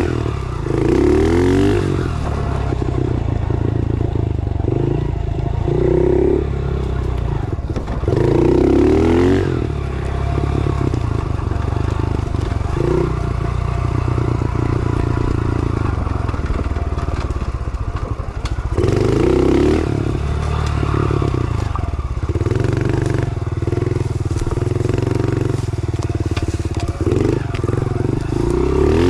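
110cc pit bike's small single-cylinder four-stroke engine being ridden, revving up and dropping back again and again as the throttle is worked between steadier running.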